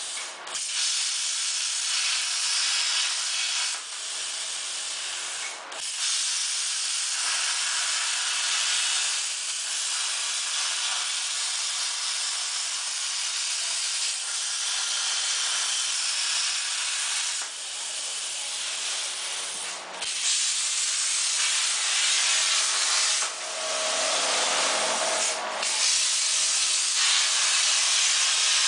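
CNC plasma torch cutting sheet metal: a steady, loud hiss that stops briefly a few times.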